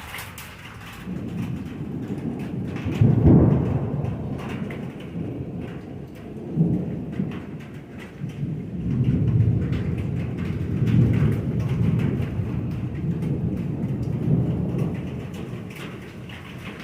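Thunder rumbling during a thunderstorm, with rain falling. The rumble builds about a second in, is loudest a few seconds in, then rolls on in several more swells before easing near the end.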